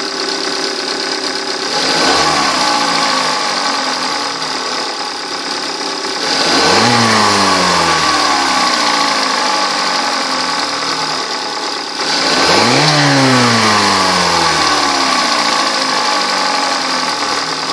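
2015 Kia Forte Koup EX's 2.0-litre four-cylinder engine idling, revved three times (briefly about two seconds in, then harder about six and twelve seconds in), each rev rising quickly and falling back to idle over a few seconds. The engine runs as one verified okay.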